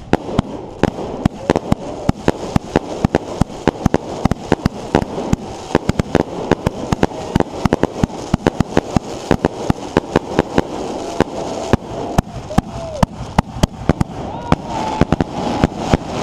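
Fireworks going off in rapid succession: a dense run of sharp bangs and cracks, several a second, over a continuous crackle.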